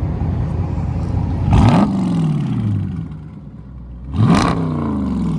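Car engine with an aftermarket exhaust revved twice, about three seconds apart, idling in between: each time the pitch shoots up and then falls back to idle over about a second.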